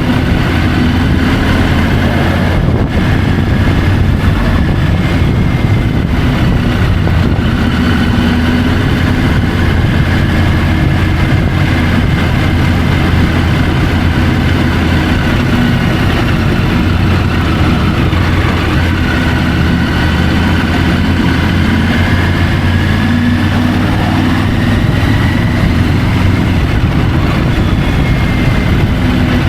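Triumph Tiger 850 Sport's inline three-cylinder engine running steadily as the bike is ridden, heard from a camera mounted on the motorcycle. The pitch drifts only slightly up and down, with no sharp revving.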